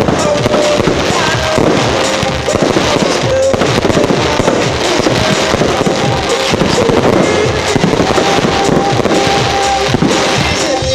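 A fireworks display in full barrage: continuous rapid bangs and crackling from many bursts at once. Music plays over it.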